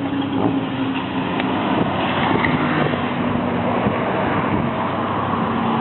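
Road traffic moving off over a level crossing, vehicle engines running with a steady low hum.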